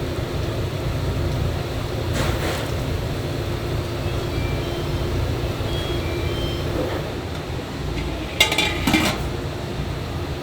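Steady low rumble and hum of a working restaurant kitchen, with brief clatters of utensils or dishes about two seconds in and again near the end.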